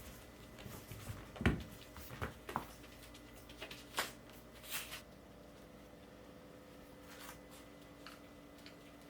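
Kittens playing with toys: scattered light taps, rustles and a few soft thumps, busiest over the first five seconds and sparse after, over a faint steady hum.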